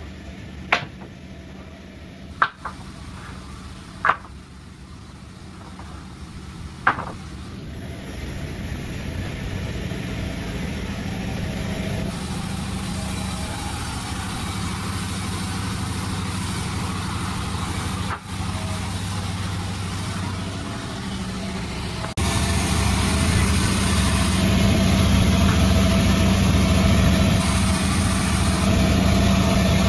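A few sharp knocks, then a machine engine settling into a steady run that grows louder, with a sudden step up in level about two-thirds of the way through.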